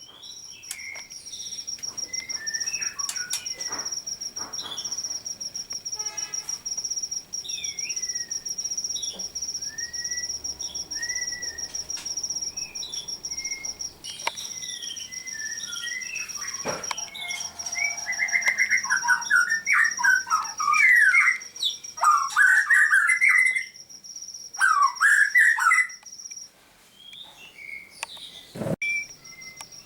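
Caged songbirds chirping and calling: scattered short chirps and whistled notes, then a stretch of loud, rapid chattering song in the second half. A steady high-pitched whine runs underneath and stops suddenly near the end.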